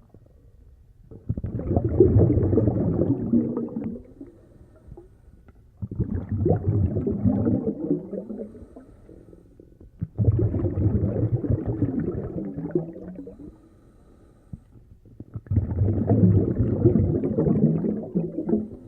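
A low, gurgling rumble played as a sound effect, heard four times, each burst lasting about three seconds with short quiet gaps between.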